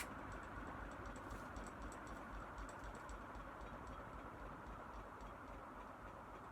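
2001 Banvil Envirofan Heavy Duty Gold Line industrial ceiling fan running on its slowest, fifth speed: a steady airy hum with faint irregular light ticking, easing a little as the fan slows. A sharp click at the start comes from the 5-speed rotary control being switched.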